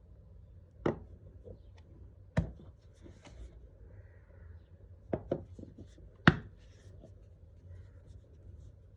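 Hand tools working wood: a few sharp knocks or taps, two close together past the middle and the loudest a little later, with faint scraping and rubbing between them.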